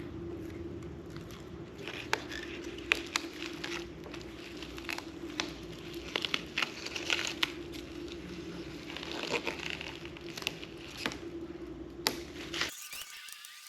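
Masking plastic and dried Plasti Dip film being peeled off car emblems by hand: irregular crinkling and tearing with sharp crackles, over a steady hum that cuts off suddenly near the end.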